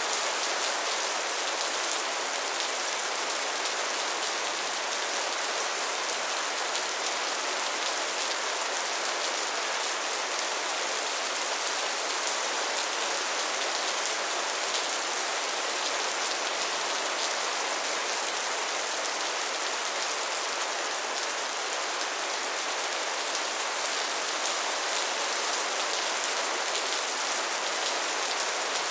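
Steady soft rain falling on a surface: an even hiss of many fine drops, with no change in strength.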